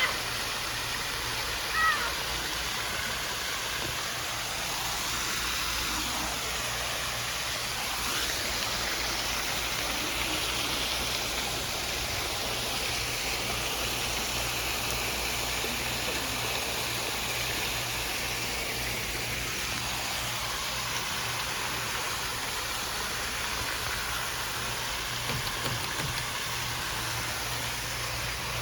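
Hampton Bay Gazebo II ceiling fan running on high speed: a steady rush of moving air over a low motor hum. A bad capacitor makes its high speed run slower than medium. Two short chirps sound in the first two seconds.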